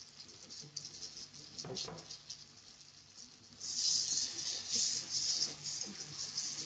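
Raw prawns sizzling in hot onion-tomato masala in a non-stick wok, with a spatula stirring them in. It starts as faint scattered crackles, and about halfway through the sizzle grows louder and comes in waves with the stirring.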